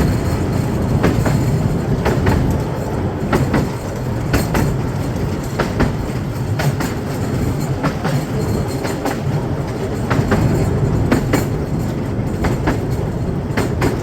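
Miniature railway train running along its track, ridden on board: a steady low rumble with irregular clicks of the wheels over the rail joints.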